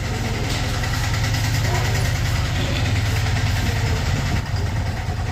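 Deep freezer's hermetic compressor running steadily after an R-290 gas charge, a low hum with a fast, even throb, drawing its proper current.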